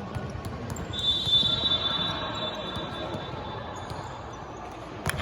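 Sounds of an indoor basketball game: a ball bouncing and scattered knocks over a steady hubbub, with a high steady tone starting about a second in and fading over about two seconds.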